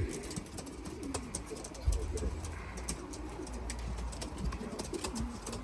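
Racing pigeons cooing in a loft, low wavering coos throughout, with scattered light clicks and taps.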